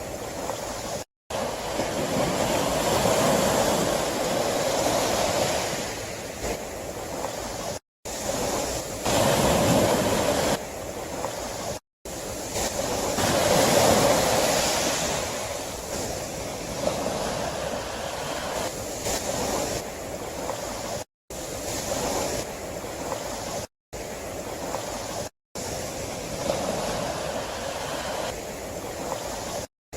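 Sea waves breaking and washing ashore, the surf swelling and easing every few seconds, loudest a few seconds in, around ten seconds and around fourteen seconds. The sound cuts out completely for a split second about seven times.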